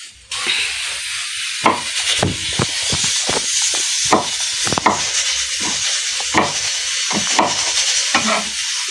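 Food sizzling in hot oil: a steady hiss that starts suddenly about a third of a second in, with many irregular crackles and pops.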